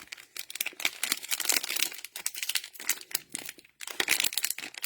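Cellophane wrappers of Panini Mosaic football card packs crinkling as the packs are opened: a dense, irregular run of crackles with a short break about three-quarters of the way in.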